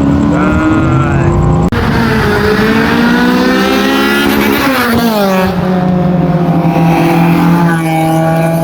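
Car engine revved hard: its pitch climbs steadily for about four seconds, falls sharply about five seconds in, then holds a steady lower note.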